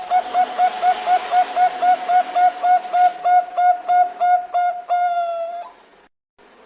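Zebra dove (perkutut bangkok) calling: a fast, even string of short cooing notes, about four or five a second, ending in one longer drawn-out note about five seconds in. The sound then cuts off abruptly. A steady hiss runs underneath.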